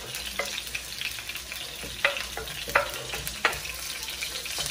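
Chopped onions and tomato sizzling steadily in hot oil in a frying pan on a low flame, with several sharp clicks and scrapes of a fork pushing vegetables off a wooden cutting board into the pan.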